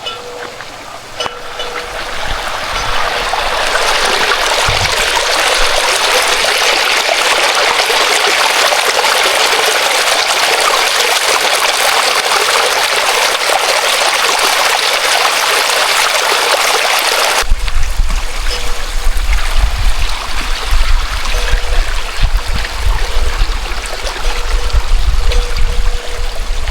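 Stream water rushing steadily, building over the first few seconds. About two-thirds of the way through it changes abruptly to a thinner water sound with irregular low rumbling.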